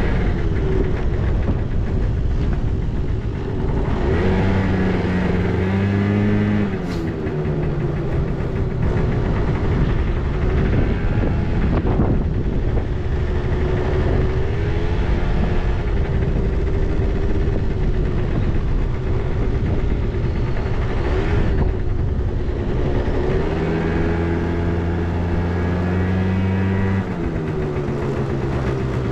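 Honda Live Dio (AF35) scooter's 49 cc two-stroke single-cylinder engine running, its speed repeatedly rising and falling. The seller describes it as sounding good, with no abnormal noises.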